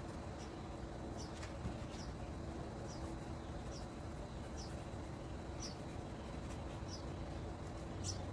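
A bird chirping: short, high-pitched chirps repeating roughly once a second, over a faint steady hum.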